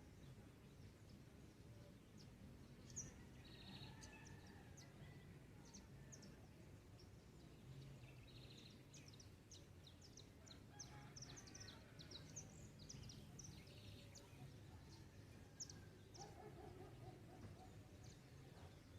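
Faint dawn chorus of birds: many short high chirps, busiest in the middle, over a low steady background rumble. A lower, pitched call sounds briefly near the end.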